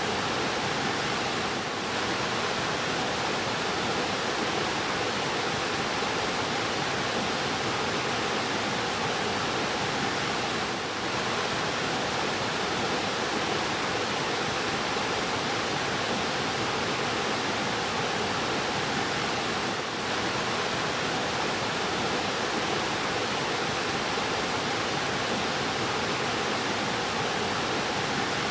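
Fast-flowing river rushing steadily: a constant, even roar of water.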